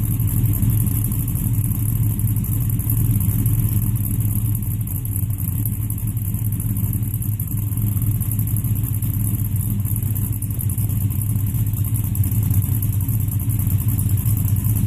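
Cammed LS V8 engine in a 1997 work truck running steadily, with no revs up or down.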